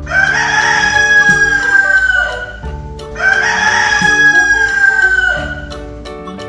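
Rooster crowing twice, each crow a long, drawn-out call that falls slightly in pitch at the end, over background music.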